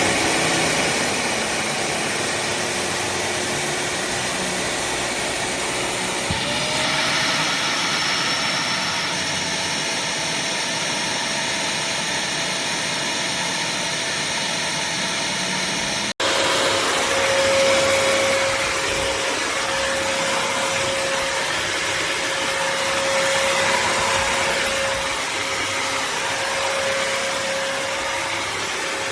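Bissell CrossWave HydroSteam wet-dry vacuum running steadily, a motor drone with a whine. Its note shifts up slightly about six seconds in, and after a sudden break about halfway through it runs on with a clearer steady whine.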